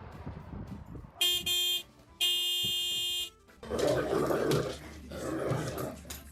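A dog vocalising: two long, steady, high-pitched tones, then rough growling bursts from about three and a half seconds in.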